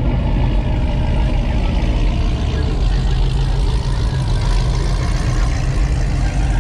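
A vehicle engine running steadily at low revs with a deep, even rumble, with voices in the background.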